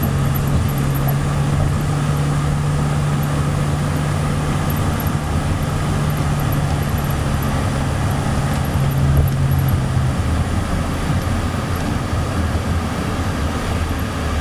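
Steady vehicle running noise with a low, even hum that stops about ten seconds in.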